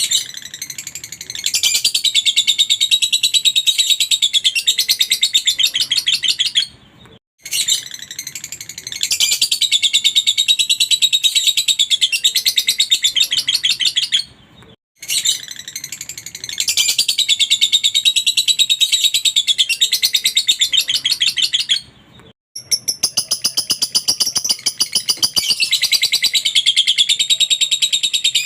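Lovebird singing its long 'ngekek' chattering song: rapid, high, unbroken trilling held for six or seven seconds at a stretch, with three brief pauses between four bouts.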